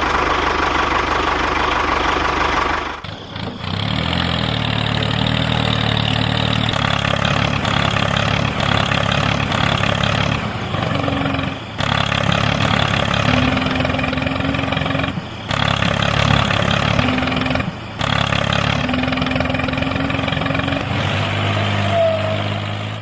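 Tractor engine running steadily at idle, a low, even hum; a higher-pitched mechanical noise for the first three seconds gives way to it, and it is broken by a few brief drop-outs.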